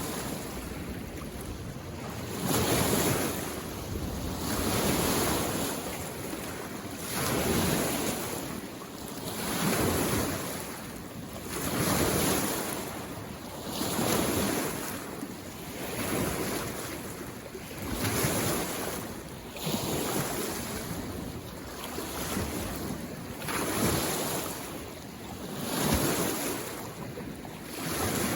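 Small waves on a mountain lake washing in on the shore, one surge about every two seconds.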